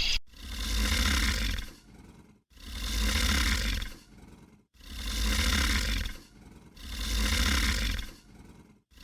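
A roar-like animal call repeated four times, about two seconds apart, each call lasting about a second and a half.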